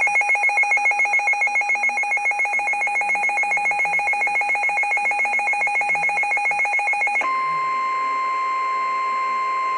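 Emergency Alert System alert tones over a radio broadcast for a severe thunderstorm warning: a loud, rapidly pulsing electronic alarm tone for about seven seconds, then a switch to a steady, slightly higher single tone, the weather-radio warning alarm.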